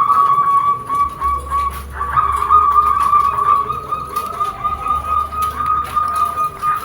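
A high, warbling whistle-like tone held almost without pause, with a brief break about two seconds in. It is a stimulant sound for getting perkutut to call.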